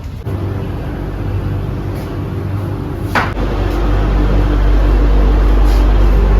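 Cabin noise inside a Vande Bharat Express coach: a steady mechanical hum, a sharp click about three seconds in, then a louder low rumble.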